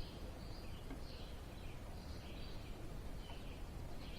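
Birds chirping repeatedly in the background over a low, steady background rumble.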